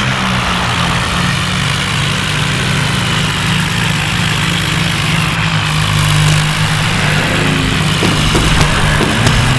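John Deere tractor's diesel engine running steadily at a constant, low-pitched note.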